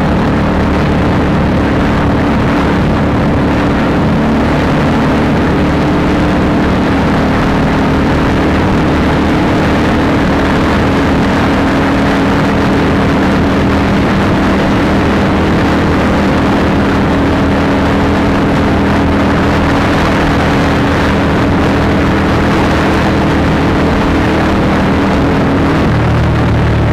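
Honda CBR150R's single-cylinder engine running through an Akrapovic exhaust at fairly steady revs while riding, over a steady rush of noise; the engine note shifts near the end.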